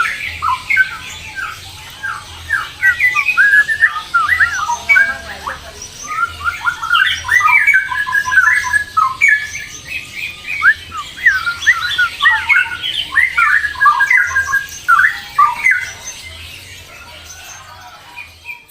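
Caged birds chirping and squawking in a dense chatter of short, rapid, rising and falling notes, busiest through the middle and thinning out near the end before it cuts off.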